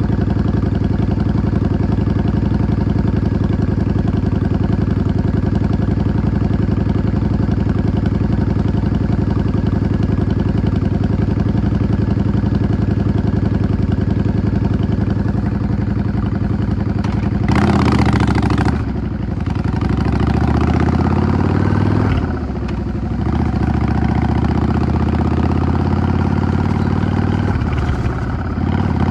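Yamaha XVS 650 air-cooled V-twin motorcycle engine idling steadily for about seventeen seconds, then pulling away and accelerating. The acceleration comes in three rising pulls, each broken by a short dip in level.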